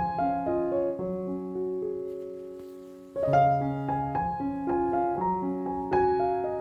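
Background piano music, a gentle melody of single notes over chords, with a held chord fading out before the playing picks up again about three seconds in.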